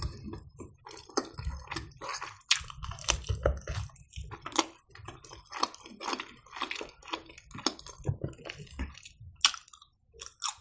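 Close-miked mouth sounds of a person biting and chewing smoked chicken: irregular wet smacks and sharp clicks several times a second, a few of them louder.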